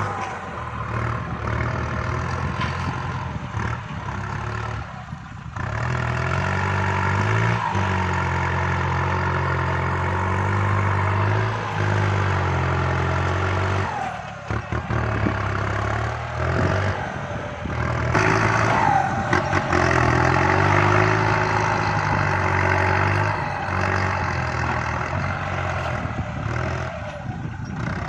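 Kubota MU5702 tractor's diesel engine working under load while pushing soil, its pitch sagging and recovering several times as the load changes.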